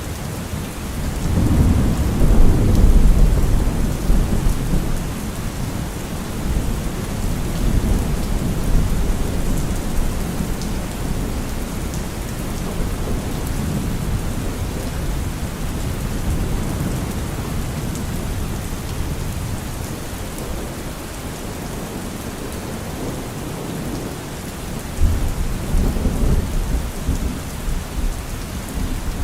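Steady heavy rain with rolling thunder: a long low rumble swells about a second in and fades slowly over many seconds, and a second rumble starts abruptly near the end.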